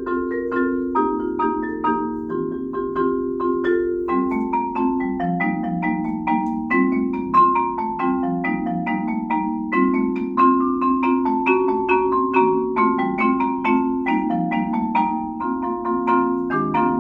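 Solo marimba played with four mallets: a steady stream of quick, evenly spaced notes in the upper range over lower notes that ring on beneath them.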